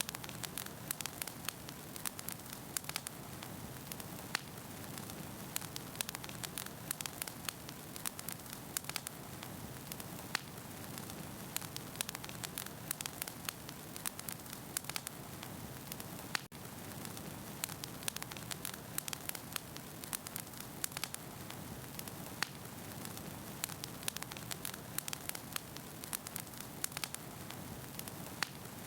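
Wood fire burning in a fireplace, with dense crackling and popping of the logs over a steady hiss of flame. A very brief dropout comes about sixteen seconds in.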